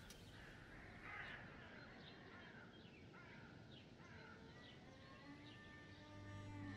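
Near silence with faint bird calls: a run of short, falling chirps, one every half second or so, with a louder, rougher call about a second in. Soft sustained music notes come in near the end.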